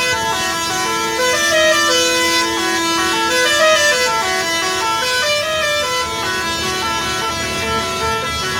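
Truck's musical 'Pakistani' horn playing a tune: a quick run of stepping notes, with one steady held note underneath until about five seconds in.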